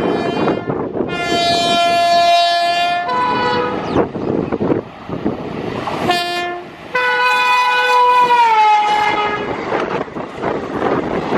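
An Indian Railways locomotive air horn sounds several blasts over the continuous rumble and rattle of a train. There is a long blast, a shorter lower-pitched one, a brief toot, and then a long blast whose pitch drops about three-quarters of the way through.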